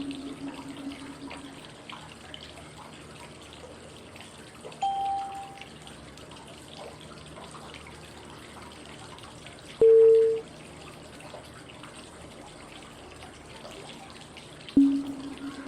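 Steady running-water white noise with small drips, with a short pitched cue tone every five seconds marking the phases of the 5-5-5 breathing cycle. A low tone rings at the start and again near the end, a higher tone sounds about five seconds in, and a middle-pitched one about ten seconds in.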